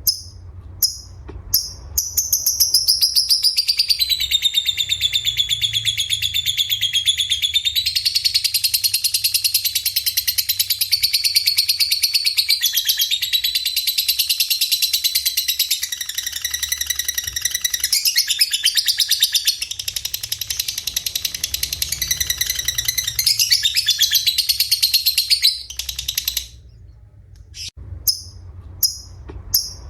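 Songbird masteran recording mixing canary, cililin and lovebird song: a few short chirps, then a long unbroken run of rapid, high trilled song that stops briefly near the end before short chirps return.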